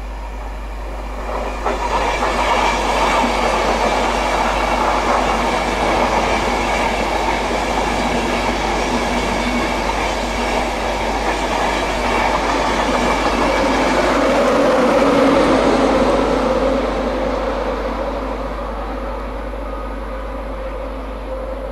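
A Class 91 electric locomotive and its InterCity 225 train running past on the rails. The noise builds about two seconds in, is loudest around fifteen seconds, then fades away near the end.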